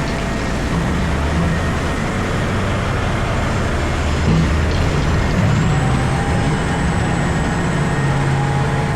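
Komatsu PC4000 mining excavator heard from inside its cab: a steady heavy engine drone with shifting low hum, and a thin whine that comes in about halfway through and holds.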